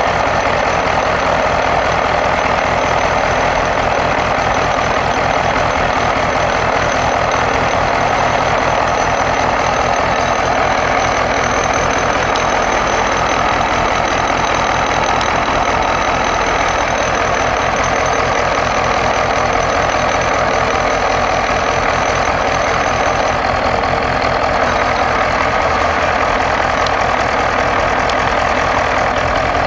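Old engine running steadily at a fast, even firing beat, with a thin high whine over it that stops about two-thirds of the way through.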